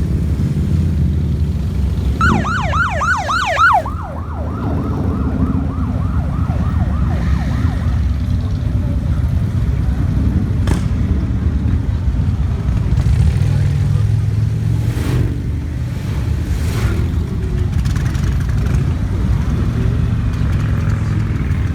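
Motorcycle engines running in a steady low rumble. About two seconds in, a siren yelps rapidly, loud for under two seconds, then fainter for a few seconds more.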